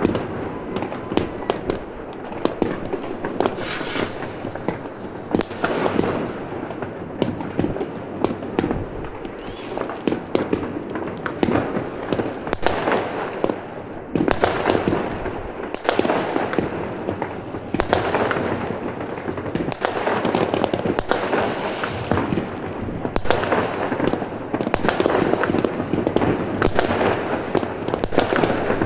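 Many fireworks and firecrackers going off at once: a continuous crackle of bangs near and far. From about halfway, loud sharp reports come roughly once a second. Two short falling whistles are heard in the first half.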